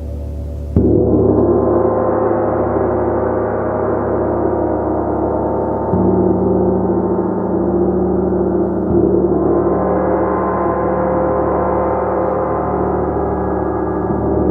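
Gong being played: a continuous, shimmering wash of many overlapping tones, struck sharply about a second in and again at intervals of a few seconds, each strike swelling the hum.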